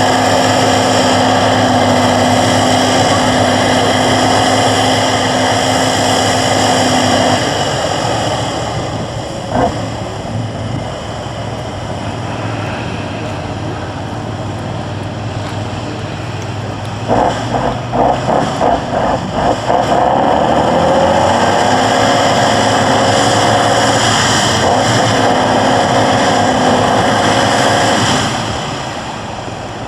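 Tatra 813 8x8 truck's diesel engine running hard, easing off after about seven seconds, then blipped in a quick run of about six short revs before running hard again, and easing off near the end.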